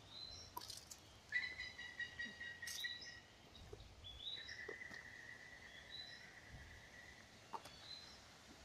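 Birds calling faintly: short high chirps, some rising, and twice a long steady high whistle held for two to three seconds.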